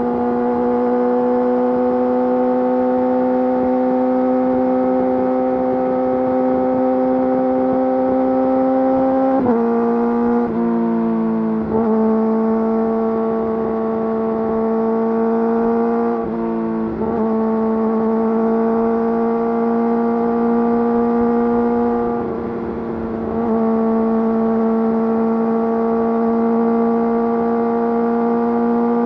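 Yamaha YZF-R6's inline-four engine running through an Akrapovič full exhaust system at a steady, fairly high rev, its pitch creeping slowly upward. The pitch dips and shifts briefly about four times along the way.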